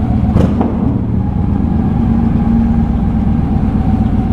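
Motorcycle engine running steadily at low speed, with one sharp knock about half a second in.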